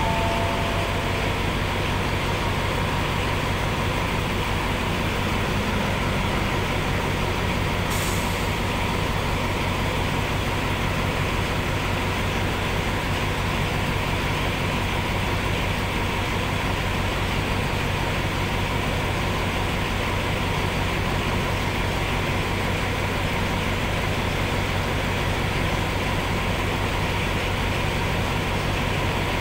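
Steady, unchanging hum of a train standing at a platform, heard from inside a coach window, with a low drone and a thin steady whine above it. A brief faint hiss about eight seconds in.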